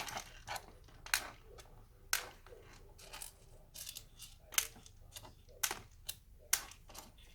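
Sharp, irregular clicks and taps of small screws and the plastic laptop case being handled during laptop disassembly, about a dozen over several seconds.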